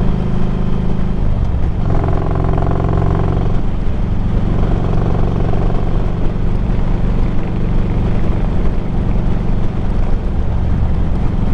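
Harley-Davidson Street Glide's Screaming Eagle 110 V-twin running under way through megaphone slip-on pipes, the engine note changing about a second and a half in and then holding steady.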